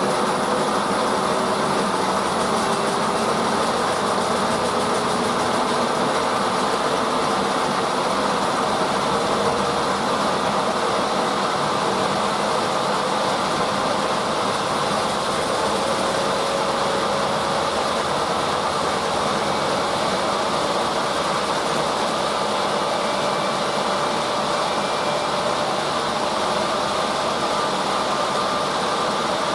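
Drum washing machine running, its drum turning with a steady mechanical rumble and swish, and a faint motor whine slowly rising in pitch.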